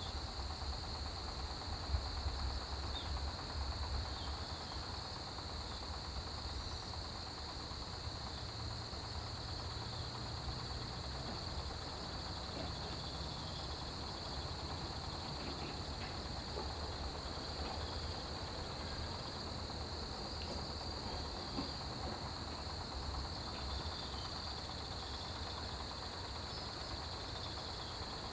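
Autumn field insects, crickets among them, calling together in a steady chorus: one even trill sits high, and a still higher chirping pulses in a fast, regular rhythm. A low rumble runs underneath.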